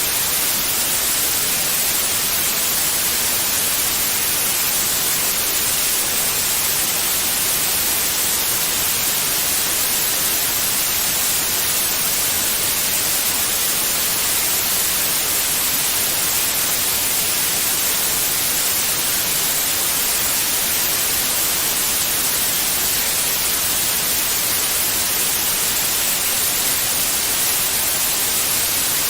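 Steady white noise: an even, unbroken hiss, brightest in the high frequencies, played continuously to soothe a baby.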